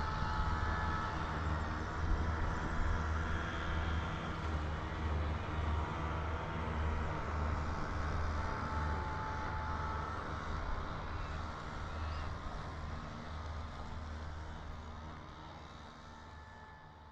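Wind buffeting the microphone and road noise on a mountain bike ride, with traffic around; the sound fades out near the end.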